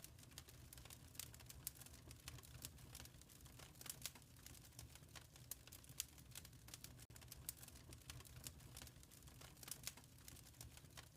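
Wood fire crackling in a fireplace: faint, irregular snaps and pops over a low, steady rumble.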